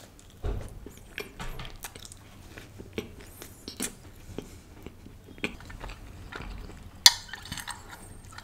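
Close-miked chewing of a bite of butter chicken pizza, the slightly dried outer crust giving small crunches and wet mouth clicks throughout. About seven seconds in comes a sharp click, then a short sip through a straw.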